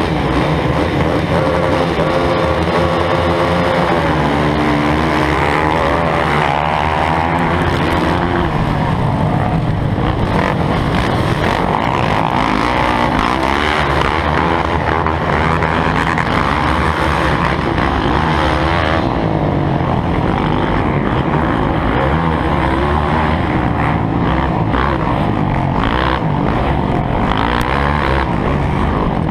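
Motocross dirt bike engines running, their pitch rising and falling with the throttle.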